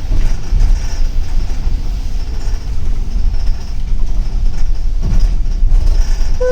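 Steady low rumble of engine and road noise inside a moving double-decker city bus.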